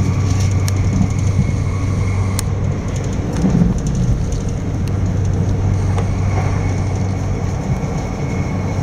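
Cabin noise of a Bombardier Electrostar electric multiple-unit train running at speed: a steady rumble with a constant low hum, and a few sharp clicks now and then.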